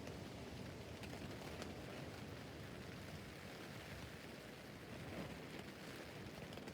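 Rain falling on a tent roof: a steady, faint hiss of rain with scattered single drops ticking on the fabric.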